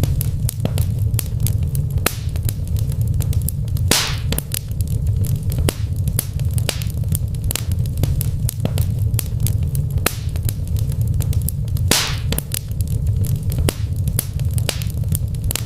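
Wood fire crackling in a brick fireplace: frequent sharp snaps and pops over a steady low rumble, with two longer, louder pops about four and twelve seconds in.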